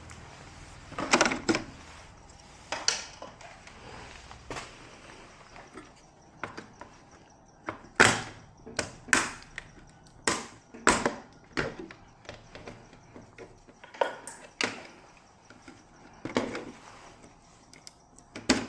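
A string of irregular clicks and knocks of hard objects being handled and set down, several sharp knocks close together in the middle.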